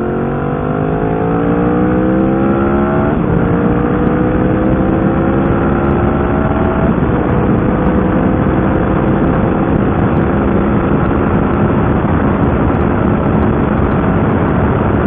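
Yamaha VMAX's V4 engine with an Akrapovič exhaust accelerating at full throttle: its pitch climbs, drops at an upshift about three seconds in, climbs again and drops at a second upshift about seven seconds in, then runs steadily at speed with wind noise building.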